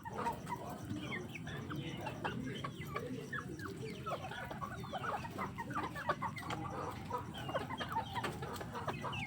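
Free-range chickens clucking, many short calls overlapping without pause, over a steady low background noise.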